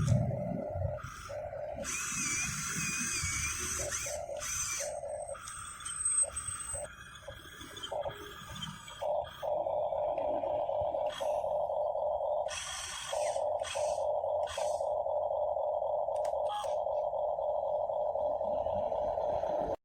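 Small electric gear motors of a remote-control toy excavator whirring, switched on and off in short bursts at first, then running almost steadily from about halfway through.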